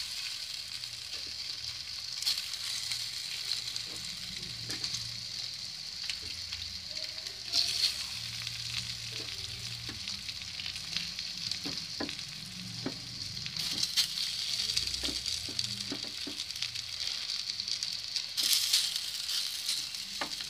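Oil sizzling in a pan as squares of wheat-flour dough shallow-fry on a low flame, with scattered small pops. The sizzle swells louder about four times, as fresh pieces are laid into the oil.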